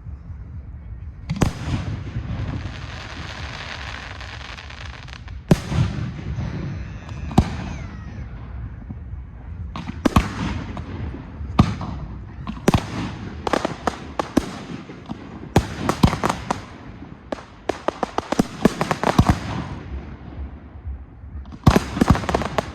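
Fireworks display: aerial shells bursting with sharp bangs, many in quick volleys, with crackling and hissing between them. A long crackling spell runs for a few seconds just after the start, and the densest run of bangs comes in the middle.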